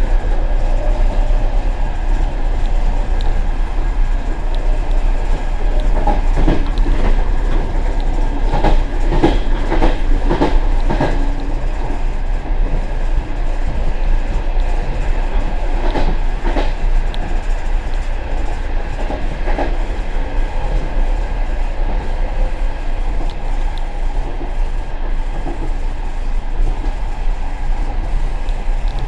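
Passenger train running, heard from the rear vestibule of the last carriage: a steady rumble with the wheels clattering over the track, in a quick run of clicks from about six to eleven seconds in and again around sixteen seconds.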